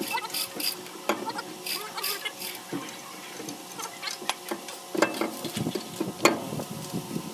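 Irregular clinks, knocks and scrapes of tools and metal parts being handled during axle and differential repair work, with two louder knocks about five and six seconds in.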